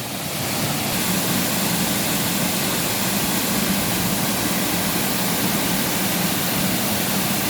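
Waterfall in full spate, swollen to its maximum level: a steady, loud rush of falling water that swells over the first second, then holds even.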